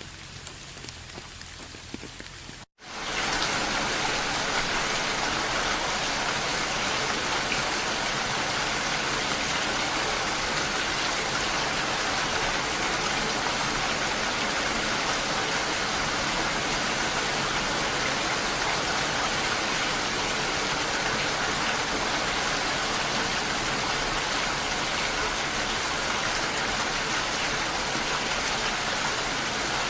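Steady rain falling. About three seconds in it cuts out for an instant, then comes back as heavier, louder rain and keeps up evenly.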